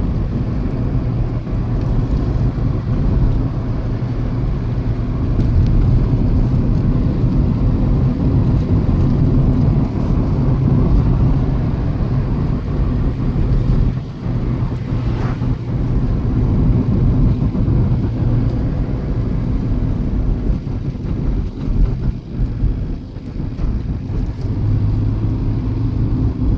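Steady rumble of a car driving, engine hum and tyre noise as heard inside the cabin.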